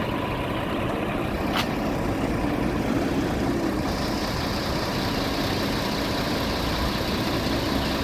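Heavy truck engine idling with a steady low rumble. There is one sharp click about a second and a half in, and a higher hiss joins about four seconds in.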